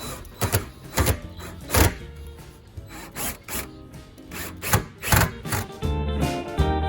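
Irregular knocks and scraping as a couple of screws are put into the side of a rain-collector fitting. Guitar-led background music comes in near the end.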